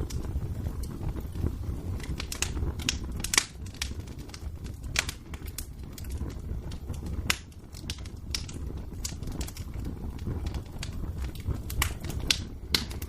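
Wood fire burning in a fireplace: a steady low rumble of flames with sharp, irregular crackles and pops.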